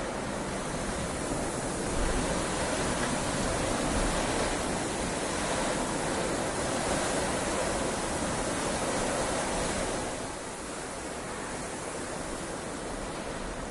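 Heavy rain falling steadily as an even hiss. It grows louder about two seconds in and eases slightly about ten seconds in.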